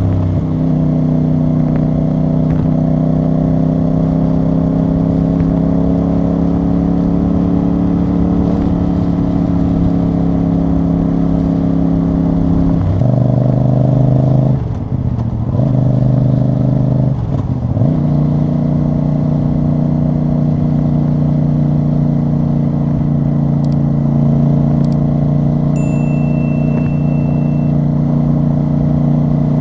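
CF Moto CL-C 450 parallel-twin engine and exhaust under way. It pulls steadily with the pitch slowly rising, then changes gear with two quick throttle lifts about halfway through, before settling into a steady cruise. A short high beep sounds near the end.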